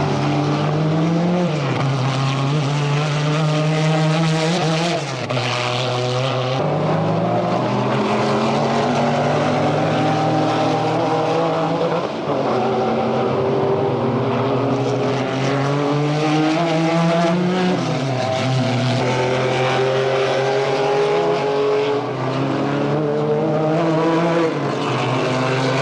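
Porsche 911 race car engine running hard. Its pitch climbs slowly and falls back several times, with brief dips in loudness each time it drops.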